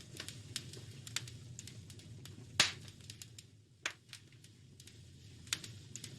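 Wood fire crackling in a fireplace: irregular snaps and pops, the sharpest about two and a half seconds in, over a low steady rumble.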